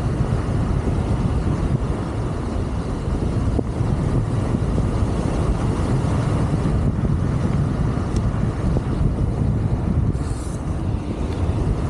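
Wind buffeting the microphone while riding a Wolf King GT Pro electric scooter at speed: a steady rushing noise, with road noise from the scooter underneath. A short hiss about ten seconds in.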